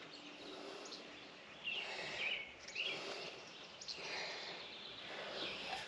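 Birds chirping faintly a few times over low, steady outdoor background noise.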